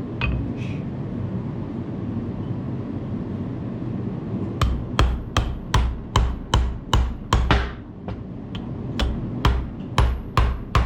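Hammer blows on metal, a quick run of about two and a half strikes a second that starts about four and a half seconds in, pauses briefly, then resumes, over a steady low hum. They come from work on the excavator's swing case, where the old seal is coming out.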